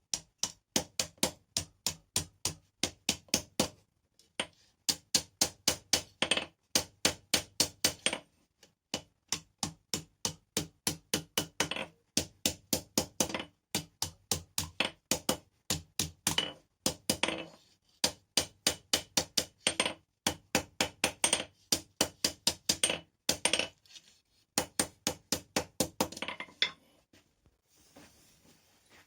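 Hand hammer striking steel rebar on an anvil during forging, in quick runs of blows with short pauses between them. Each blow leaves a short metallic ring.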